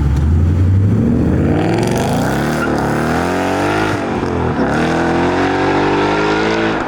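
A car engine pulling away under acceleration. A low rumble for about a second gives way to a rising engine note, which dips briefly twice around the middle and climbs again.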